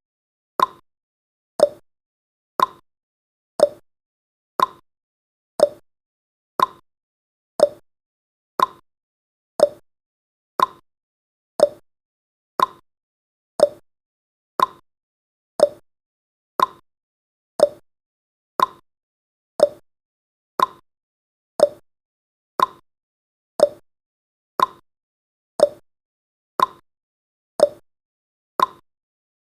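Countdown timer's clock-tick sound effect: a short, sharp tick once every second, evenly paced.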